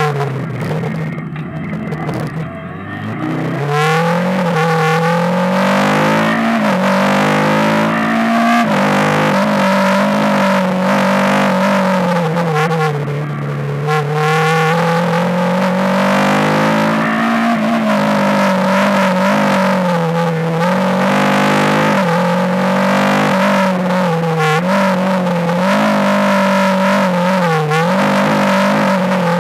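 Rally car engine heard from inside the cabin at racing speed, repeatedly revving up and dropping back as the driver shifts, brakes and takes corners. Engine pitch and loudness fall away briefly about one to three seconds in, then climb again.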